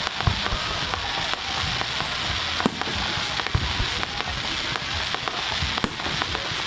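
Fireworks display: a continuous crackle of bursting stars with many sharp cracks and low booms, the sharpest crack about two and a half seconds in and another near six seconds.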